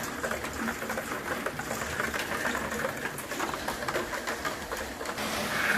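Light rain falling, a steady patter with many small irregular drip ticks.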